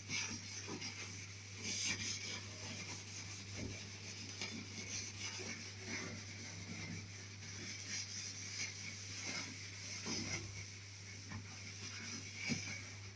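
A steel-wool scourer scrubbing a stainless-steel cooker top in short, irregular rasping strokes.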